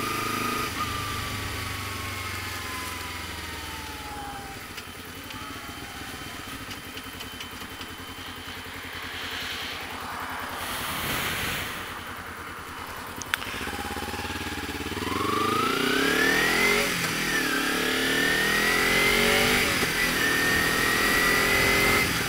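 Kawasaki Ninja 250 motorcycle with a Pipewerx aftermarket exhaust, baffle fitted, being ridden. The engine note falls as the bike slows over the first few seconds, then runs low for a while. It rises as the bike accelerates in the second half, with a short dip partway through the climb, and gets louder.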